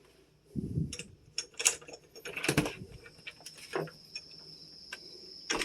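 A series of knocks, clicks and rustles from handling things. Then, from about halfway through, a steady high chirring of crickets.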